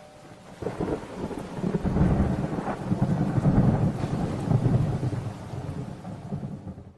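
A long, uneven low rumble that swells about half a second in and dies away near the end.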